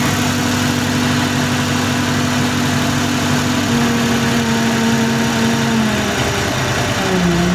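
Cummins 903 V8 diesel engine running steadily near idle, its speed dropping a step about halfway through and again near the end.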